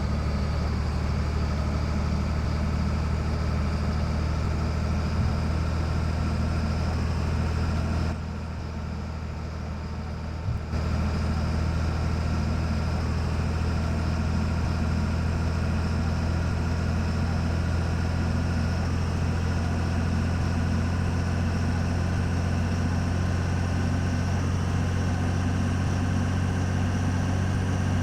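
Scania 113's six-cylinder diesel engine running steadily, its pitch slowly rising. About eight seconds in it goes quieter for about two and a half seconds, then comes back to full level.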